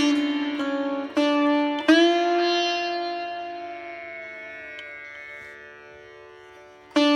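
Instrumental background music of plucked strings over a steady drone: a few plucked notes, then one long note that slowly dies away, with new plucks starting near the end.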